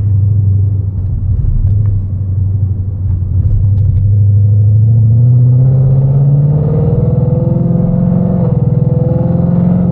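2019 Mustang GT's 5.0 V8 with catless headers and straight pipes, running under way with a loud exhaust note. The pitch holds steady at first, then climbs over a couple of seconds starting about four seconds in as the revs rise, and holds higher toward the end.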